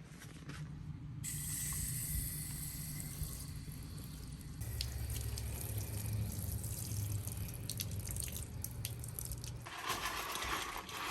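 Kitchen tap running water, most likely into a sink or pot, as a steady hiss that turns into a louder, fuller rush about ten seconds in. A low hum sits under the water through the middle.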